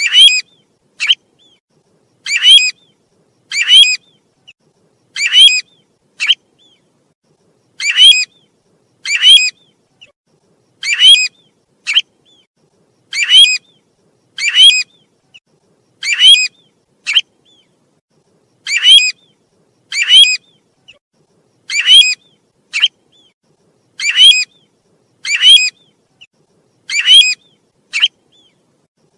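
Call of the bird known in Vietnamese as the 'tu huýt', a short, high, rising whistled note repeated about once a second with a fainter short note between some calls, in the even rhythm of a lure recording.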